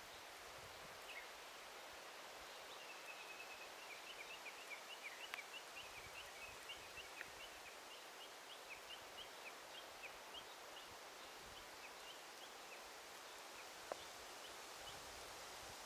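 Faint forest ambience: a steady soft hiss with a bird giving a long run of short, high chirps, several a second, that fade out near the end. A single sharp click about fourteen seconds in.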